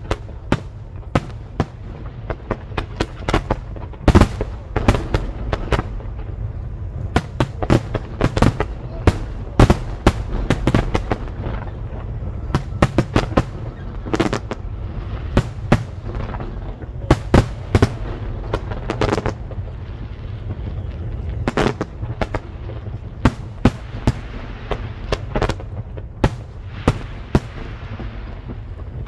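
Aerial fireworks shells bursting in rapid, irregular succession: dozens of sharp bangs, some in quick clusters, over a steady low background din.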